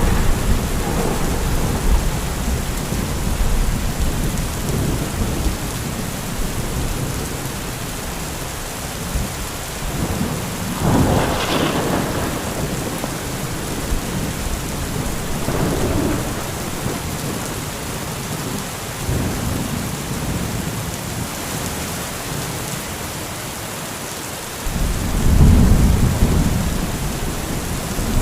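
Thunderstorm: steady heavy rain with rolling thunder, a sharper thunderclap about eleven seconds in, and a loud low rumble of thunder starting suddenly near the end.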